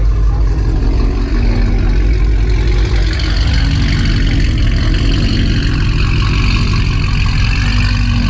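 Dodge Challenger SRT Hellcat's supercharged 6.2-litre Hemi V8 running at low speed as the car creeps forward, a steady deep engine and exhaust note without hard revving.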